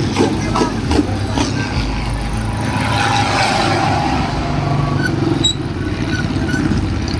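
Tractor engine running loud and hard, with a rougher, noisier swell around the middle.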